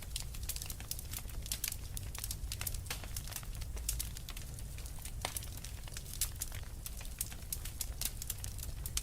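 Wood fire burning in a fireplace, with many irregular sharp crackles and pops over a steady low rumble.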